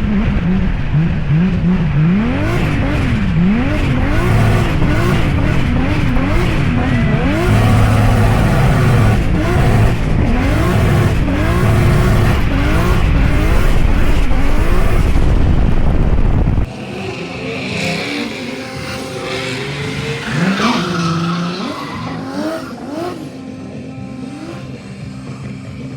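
Turbocharged 2JZ-GTE inline-six in a drifting Genesis Coupe, revs swinging rapidly up and down with the throttle, with tyre squeal. About two-thirds of the way through the sound cuts off abruptly into a much quieter passage where steady musical tones come in.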